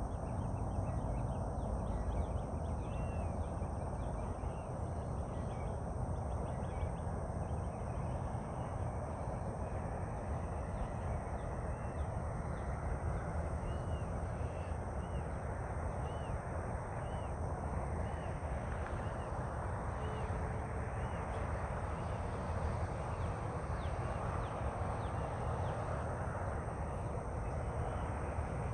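Steady outdoor rumble and hiss with birds calling; around the middle a bird gives a run of short, arched chirps about once a second.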